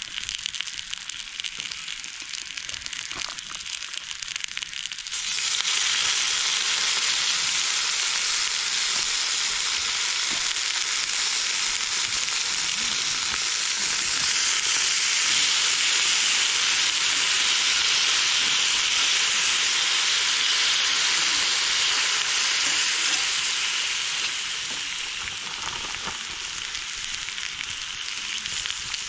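Food sizzling on a hot grill or pan over a campfire: a loud steady sizzle sets in suddenly about five seconds in, as if food has just gone onto the hot surface, and eases off near the end. Before it, only a faint fire crackle.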